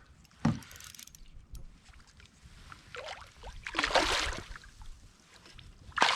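Knocking and water splashing on a kayak while a big smallmouth bass is fought at the boat. There is a single sharp knock about half a second in, then splashy bursts around three to four seconds in, and more splashing near the end.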